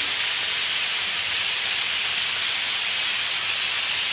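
Turkey breasts frying in hot oil in a pan, a steady sizzle.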